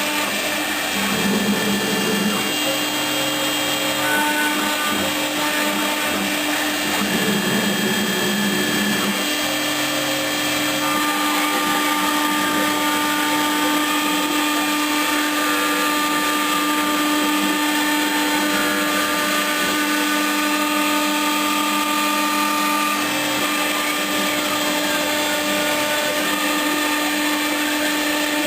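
Homemade CNC router running: a steady motor whine under noise from the spindle, with short tones from the axis motors that come and go and shift in pitch as the machine moves, mostly in the first ten seconds.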